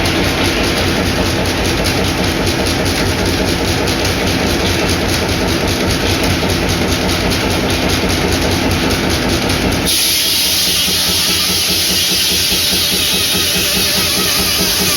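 Old stationary hot-bulb engine driving a circular sawmill, running with a steady, even beat. About two-thirds of the way through, the sound switches abruptly to a brighter, hissier one.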